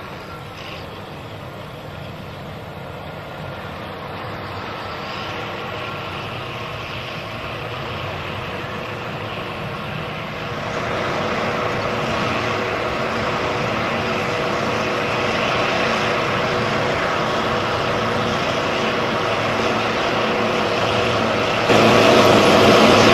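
Heavy tractor engine running under load, a steady drone that grows slowly louder, with a sudden jump in level near the end.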